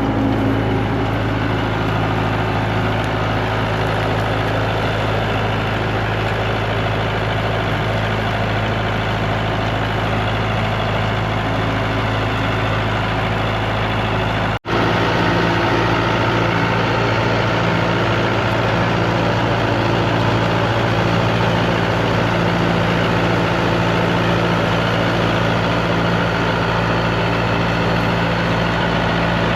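Tractor engine running steadily, with a brief cut in the sound about halfway through.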